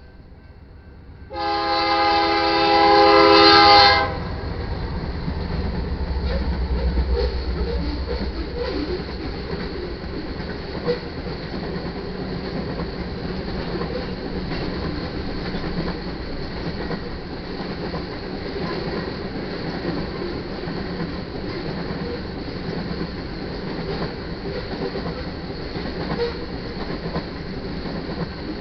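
A BNSF freight locomotive, a GE Dash 9-44CW, sounds one loud, steady horn blast for the grade crossing, starting about a second in and cutting off about four seconds in. The locomotives then pass with a deep diesel rumble, followed by the steady rolling noise and clickety-clack of freight cars going by.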